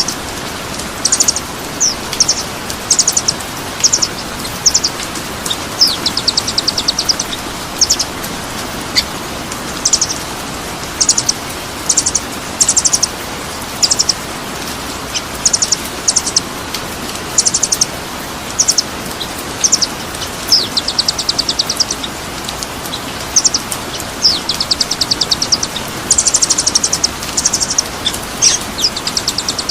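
A songbird repeating short, high chirps and quick rattling trills in bursts about every half second to second, over a steady hiss.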